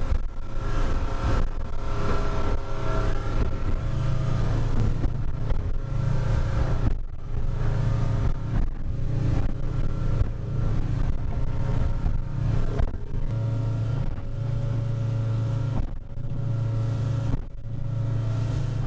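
Boat engine running at cruising speed under way through waves, its low hum swelling and dropping every second or two as the hull rides the chop, over a steady rush of water and wind.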